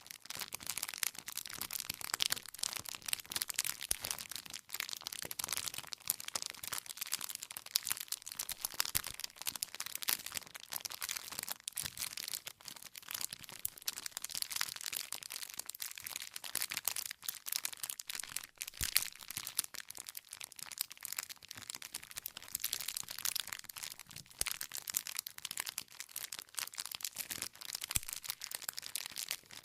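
Campfire burning with a steady stream of crackles and pops from the burning firewood.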